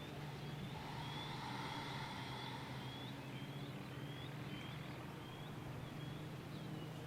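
Faint room tone with a steady low hum, over which a small bird chirps over and over in the background: short high notes that fall in pitch, about one every half second.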